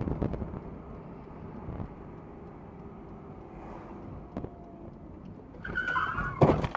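Steady vehicle road rumble, then near the end a brief high squeal followed by a loud bang, typical of a collision.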